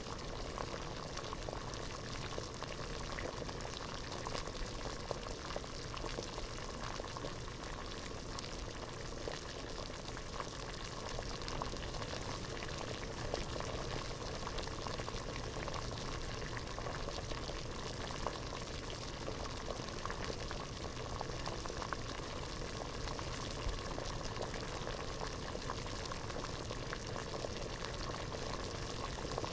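Water boiling in a pot, a steady dense bubbling and popping at a rolling boil.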